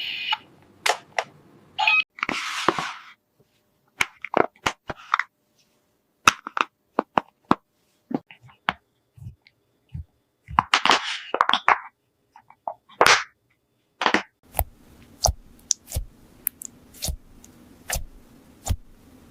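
Small plastic toy pieces being handled: a string of separate clicks and taps, with a few short bursts of rustling. A faint low hum comes in about two-thirds of the way through.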